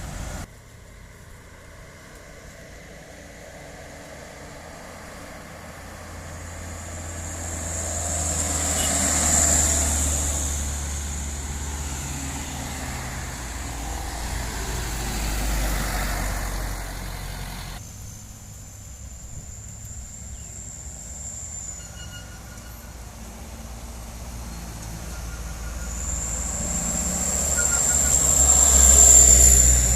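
Motor vehicles going by: a low engine rumble with a high whine swells and fades, loudest about nine seconds in and again near the end, with a sudden break about eighteen seconds in.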